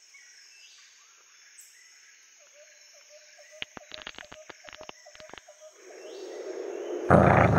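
Animation sound effects: a faint wavering tone with a quick run of clicks, then a rush of noise that swells and turns loud near the end.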